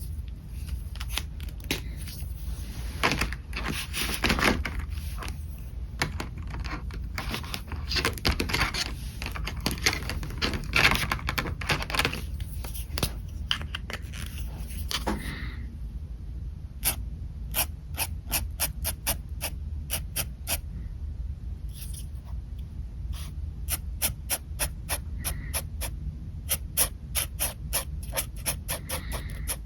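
Pen nib scratching across paper in sketching strokes: a dense run of longer scratches, then quick, short hatching strokes, a few a second, in the second half.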